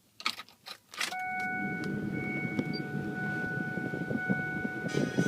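Keys jangling, then about a second in the Ford 7.3-litre turbo diesel is heard running steadily, with steady whining tones over its low rumble.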